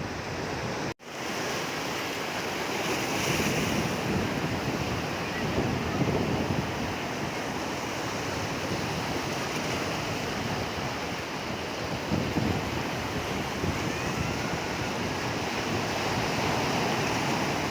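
Sea waves washing onto the shore in a steady surf, swelling and easing, with wind buffeting the microphone. The sound cuts out abruptly for a moment about a second in.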